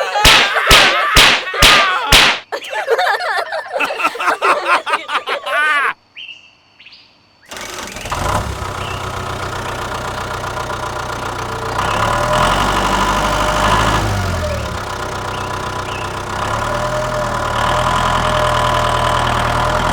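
Voices for the first few seconds. After a short lull, a tractor engine starts abruptly and runs steadily, getting louder twice.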